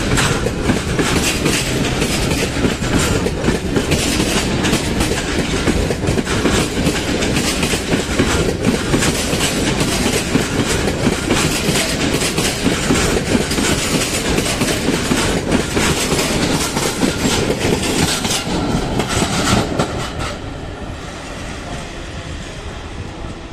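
Passenger train rolling past close by, its wheels clattering over the rail joints; the noise drops off suddenly about twenty seconds in as the end of the train goes by.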